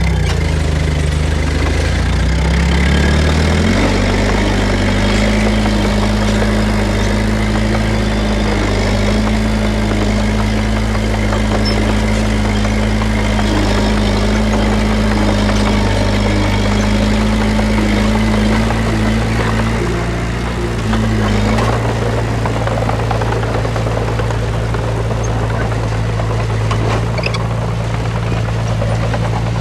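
Heavy diesel engine of earthmoving machinery revving up over about two seconds, then held steady at high revs, with a brief dip in engine speed about twenty seconds in.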